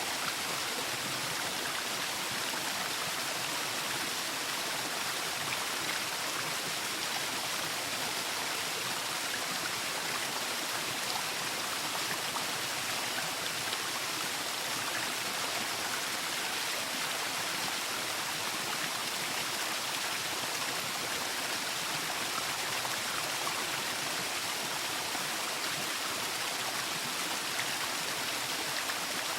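Waterfall: a steady, even rush of falling water, strongest in the upper range and light in the low end.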